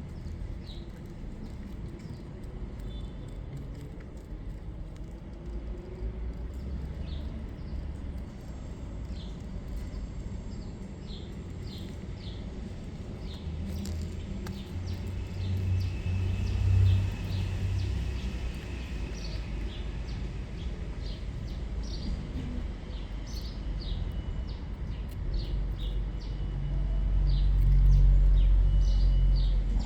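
Small birds chirping, with many short high chirps that come more often in the second half. Beneath them runs a low rumble that swells twice, the second swell, near the end, being the loudest sound.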